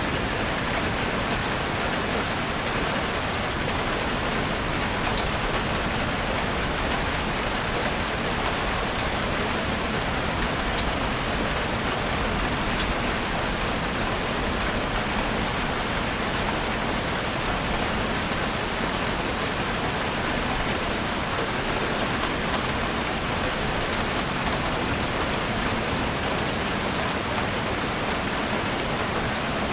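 Heavy rain falling steadily on a roof, an even unbroken patter with faint scattered drop ticks.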